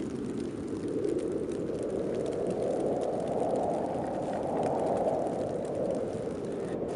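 Heavy snowstorm wind blowing steadily, a dull rushing noise that slowly swells and eases.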